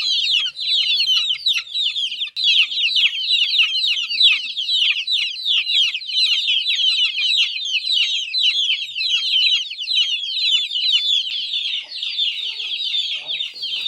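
A brood of young domestic chicks peeping without pause: a dense chorus of short, high chirps, each falling in pitch.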